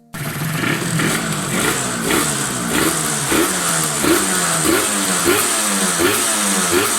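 Motorcycle engine being revved in quick, regular throttle blips, its pitch rising and falling back roughly every 0.6 seconds.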